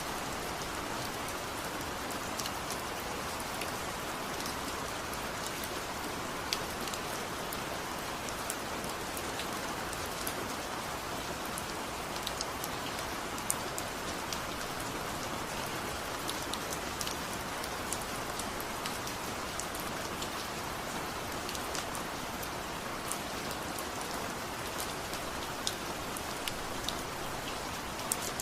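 Steady rain falling: an even hiss with many scattered sharp ticks of drops.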